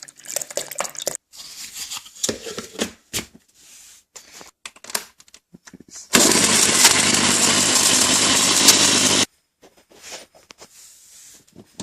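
A few handling clicks and knocks, then an American 110-volt blender run on 220-volt European mains: it runs loud and steady for about three seconds and cuts off suddenly, the overvoltage having burned out its motor.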